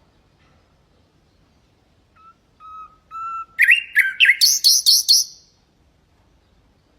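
Common nightingale singing one phrase. About two seconds in come three soft, drawn-out whistled notes, then a loud, fast run of repeated notes that jumps higher partway through and stops just after five seconds.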